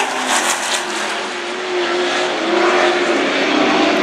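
Several Super Truck race engines running hard on a dirt oval, their pitch rising and falling as the trucks pass and accelerate.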